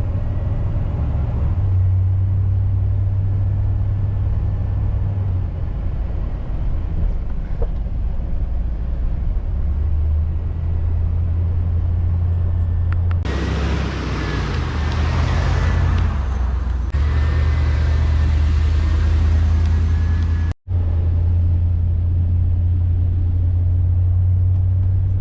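1989 Chevy G20 van driving, a steady low drone of engine and road noise. About halfway through, a louder, hissier stretch of road noise lasts several seconds, and the sound cuts out for an instant about 20 seconds in.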